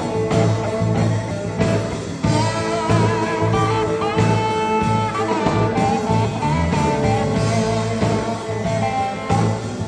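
Live sacred steel gospel band playing: a steel guitar lead with sliding, wavering notes over bass and drums.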